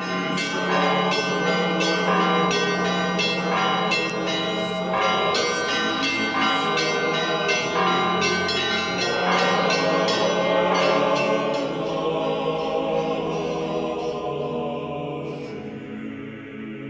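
Church bells ringing: many quick strikes on smaller bells over a steady low hum, thinning out and fading in the last few seconds.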